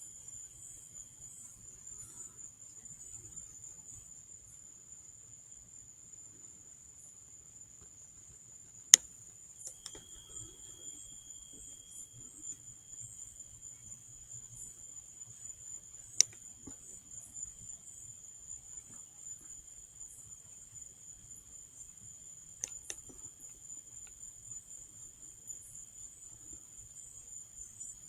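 Insects trilling in a steady, high-pitched chorus. A few sharp clicks break in, the loudest about nine seconds in.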